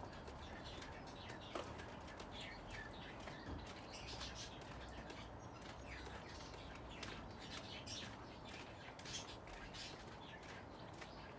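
Birds chirping: many short, high chirps scattered throughout, over faint steady background noise.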